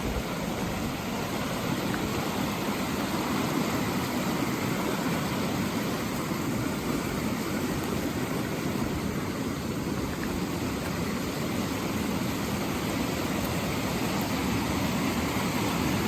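Rain-swollen creek rushing steadily, running far higher and faster than usual and cutting into its banks.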